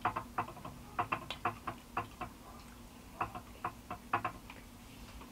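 Close-miked chewing and mouth clicks while eating, in uneven clusters of sharp clicks that stop near the end.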